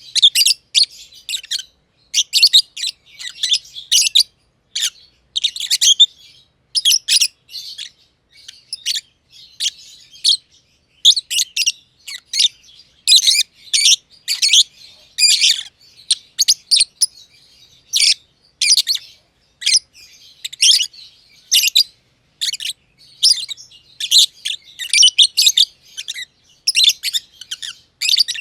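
Lovebirds (masked lovebirds, a green personata and a green pied personata) chirping: rapid, shrill, high-pitched calls in quick runs with short pauses.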